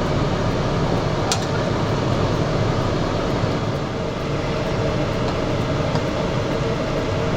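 Steady rushing and whirring of a kitchen stove at work, with a big pot of stew cooking on it, likely the range hood fan and burner together. There is one light clink about a second in.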